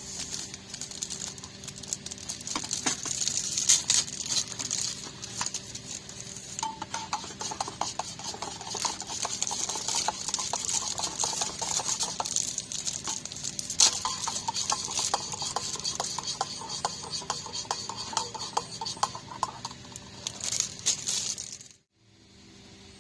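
Metal utensils clinking and scraping against cookware in a rapid, busy clatter that stops abruptly near the end.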